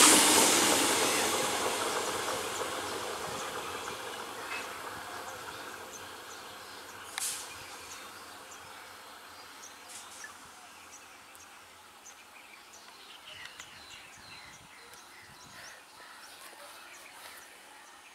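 EMU local train running away from the listener, its rail noise dying away steadily over about ten seconds. A single sharp clank comes about seven seconds in, then faint outdoor quiet with scattered small clicks and a few brief chirps.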